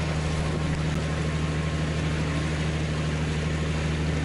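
A steady engine hum with an even rushing noise over it, running at a constant level.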